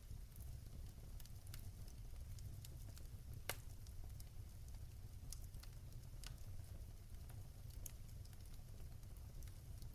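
Fire crackling in a fireplace: irregular sharp pops and clicks over a low, steady rumble, with one louder pop about three and a half seconds in.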